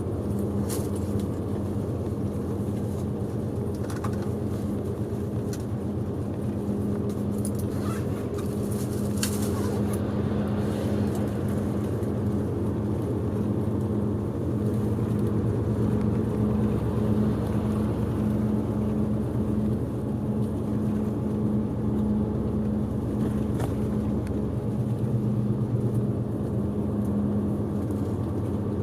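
Bus engine and road noise heard inside the cabin while driving: a steady low drone with a few light clicks in the first ten seconds.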